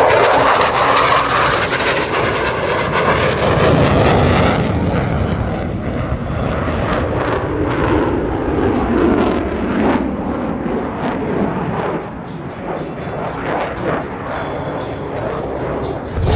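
F-16 fighter jet engine noise as the jet flies a Cuban 8 overhead: a loud, continuous rushing rumble with slowly sweeping, phasing tones. The hiss in the upper range drops away about four seconds in, and the sound grows somewhat quieter near the end.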